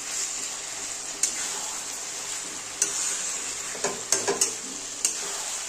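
Chicken pieces in masala sizzling as they fry in a steel kadai, with a metal spatula scraping and clinking against the pan several times as the chicken is stirred.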